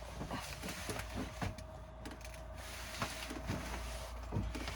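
Irregular small knocks and scuffs as a person shifts about underneath a van, over a steady low hum.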